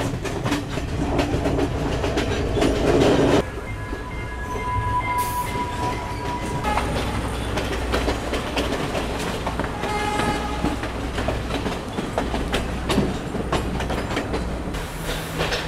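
Passenger train heard from an open carriage door: wheels clattering over the rail joints with rushing air. A horn sounds, held for a couple of seconds about four seconds in and again briefly around ten seconds.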